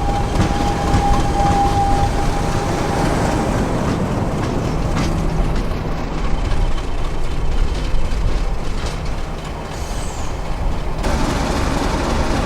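Class 50 diesel locomotive's English Electric 16-cylinder engine running steadily, a loud continuous rumble.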